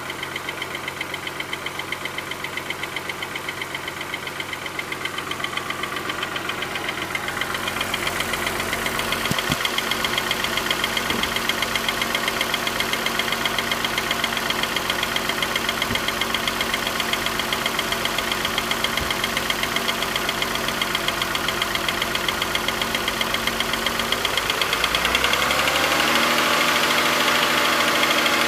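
2006 Suzuki Verona's 2.5-litre inline-six running steadily at idle, getting a little louder about seven seconds in. Near the end the engine speed rises and holds at a higher idle.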